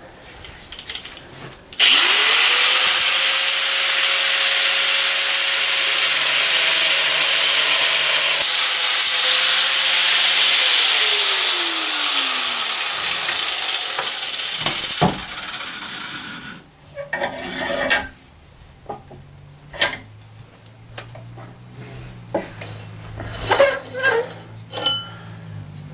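Angle grinder spinning up about two seconds in and biting into the steel of a lawnmower blade with a loud hiss, then switched off around ten seconds in, its motor whine falling away. Afterwards scattered metal clinks and knocks as the piece is handled.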